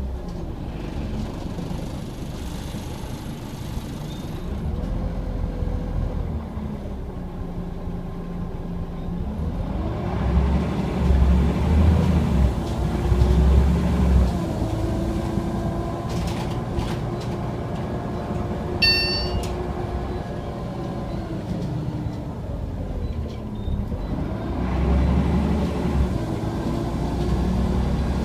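Scania OmniCity single-deck bus's diesel engine running on the move, its note rising and falling several times as the bus pulls away through the gears and slows, over low road rumble. A short high beep sounds about two-thirds of the way through.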